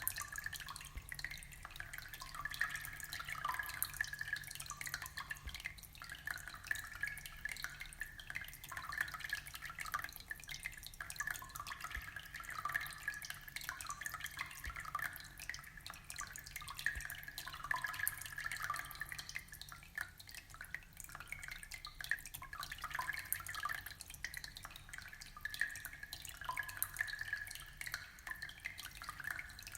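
Aquarium water trickling and splashing continuously, a busy patter of small drips and bubbles, with a faint low hum underneath.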